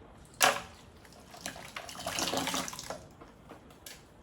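A sharp knock about half a second in, then water splashing and trickling, as in washing with a cloth in soapy water.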